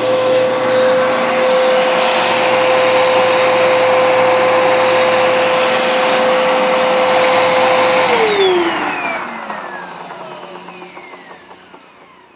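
Bissell PowerForce bagged upright vacuum's 10-amp motor running with a steady whine, then switched off about eight seconds in. Its pitch falls and the sound fades as the motor spins down.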